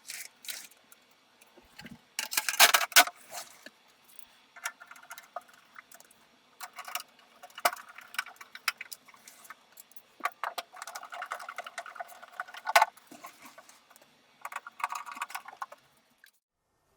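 Small metal parts of a desktop PC clinking, clicking and rattling as it is handled and assembled by hand, in irregular bursts with short pauses; the loudest clatter comes about two to three seconds in and again near the end.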